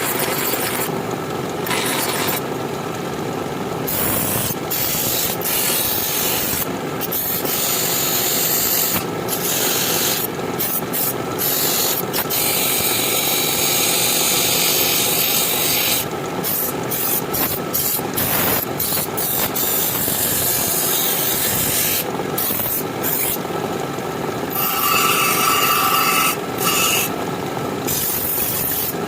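Abrasive hand work on the knife: continuous rubbing and rasping strokes, broken by brief pauses between passes.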